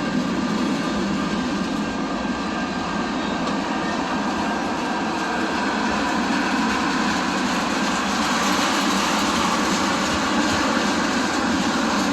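A train passing on the tracks: a steady running noise of wheels on rail that grows a little louder in the second half.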